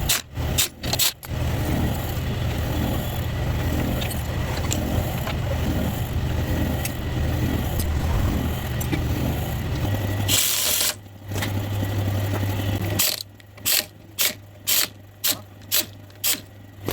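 Vehicle engine idling steadily, with a short hiss about ten seconds in; near the end a run of sharp clicks, about two a second, with quiet gaps between them.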